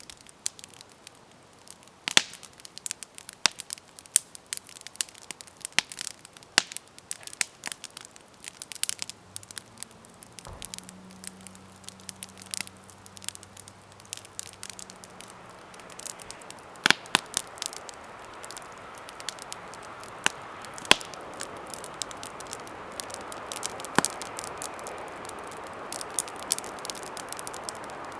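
Wood campfire burning, with irregular sharp crackles and pops. A steady hiss builds through the second half, and a faint low hum is heard briefly about ten seconds in.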